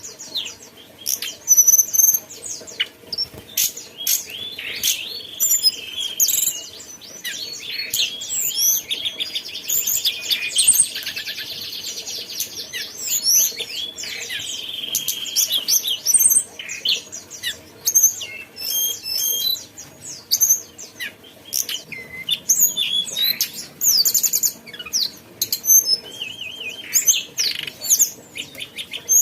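Tledekan gunung songbird singing a busy, varied song of high chirps, sliding whistles and fast rattling trills, with almost no pause between phrases.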